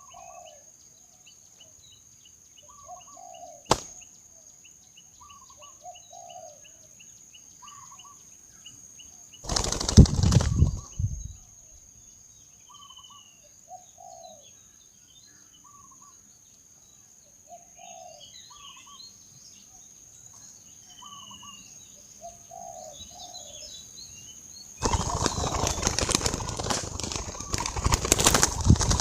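Spotted doves cooing, a low two-part coo repeated every second or two, over a steady high-pitched whine. About ten seconds in, and again through the last few seconds, loud hard wing flapping.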